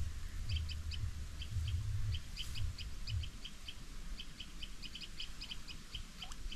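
A bird calling in a steady series of short, high chirps, several a second, with a low rumble under it during the first three seconds.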